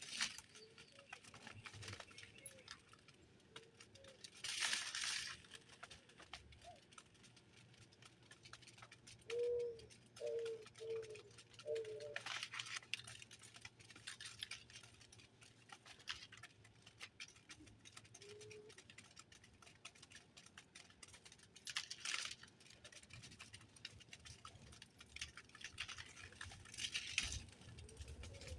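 Birds at a feeder: scattered small pecking and scrabbling taps, a few brief rushes like wing flutters, and a quick run of four short low calls.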